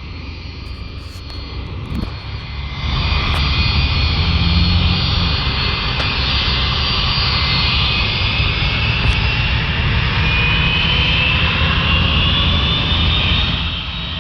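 Aircraft turbine engines running loud and close: the noise builds, swells sharply about three seconds in, then holds steady with a high whine that slowly rises in pitch.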